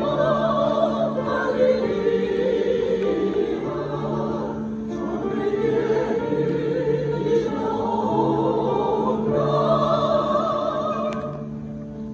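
A choir singing a slow song in unison, with long held notes and vibrato over a steady low accompaniment.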